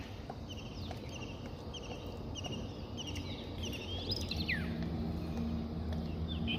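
A bird calling: a run of short, quick chirps repeated several times a second, then a longer falling whistle about four seconds in, over a low steady hum.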